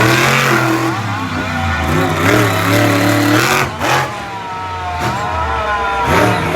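Monster truck engines revving hard, the pitch rising and falling with the throttle. There is a sharp noise a little past halfway.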